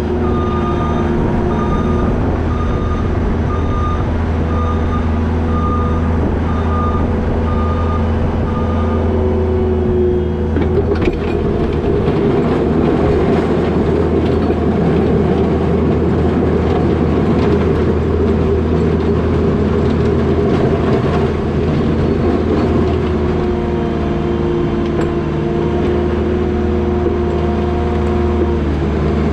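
New Holland L220 skid steer's diesel engine running steadily under load, its pitch shifting about two-thirds of the way through. A backup alarm beeps about once a second for the first nine seconds or so.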